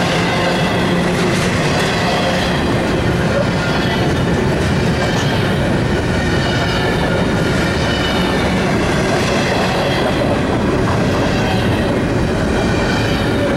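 Freight train of empty intermodal well cars rolling past close by: a loud, steady rumble and clatter of steel wheels on rail, with a faint high wheel squeal running through it.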